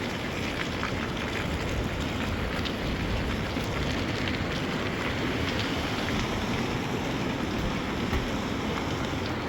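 Heavy rain falling steadily, with wind blowing and scattered drops tapping.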